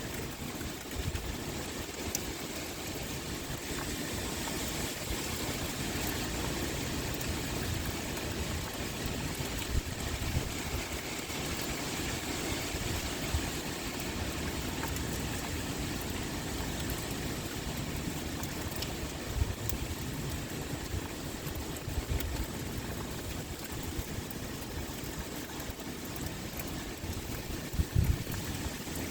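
Steady pouring rain with wind, with occasional brief low thumps, the strongest near the end.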